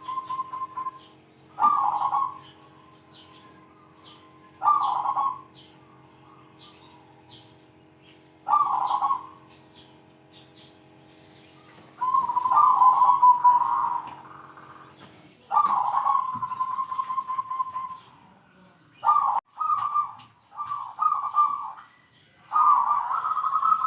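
Zebra dove (perkutut) cooing in repeated short phrases, a few seconds apart at first, then coming close together from about halfway through.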